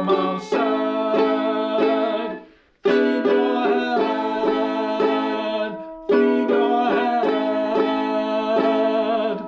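Ukulele strumming chords in three phrases of repeated strokes. The first phrase dies away to a short silence, and the last chord rings out as the song ends.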